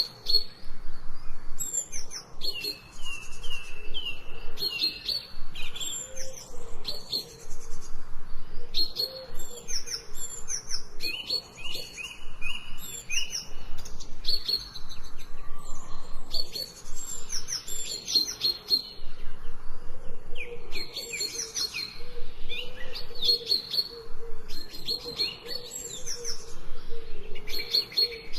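Several songbirds chirping and singing, overlapping phrases of short repeated chirps and trills with hardly a pause.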